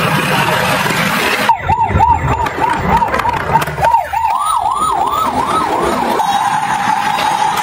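An electronic emergency-vehicle siren starting about a second and a half in: a quick yelp of about three rising-and-falling sweeps a second, then wider, higher sweeps a little slower, then a single held steady tone near the end, over a low rumble.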